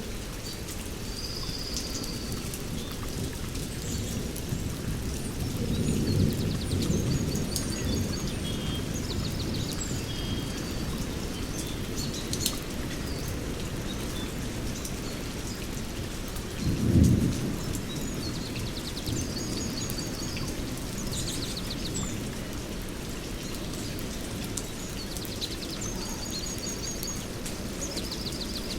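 Steady rain with two rolls of thunder, a longer one about six seconds in and a louder, shorter one around seventeen seconds in. Birds chirp in short, high trills throughout.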